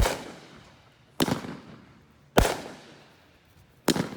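Consumer fireworks going off: four loud bangs about a second and a bit apart, each trailing off as it fades.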